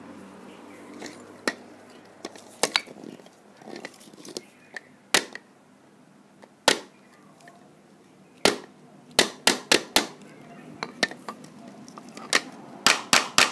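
A hammer striking a Magic 8 Ball again and again: about twenty sharp, irregular knocks, coming faster in quick runs in the second half.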